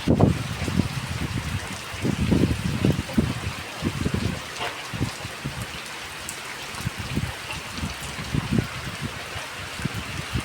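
Steady hiss of heavy storm rain, with strong wind gusts buffeting the microphone in irregular low rumbles.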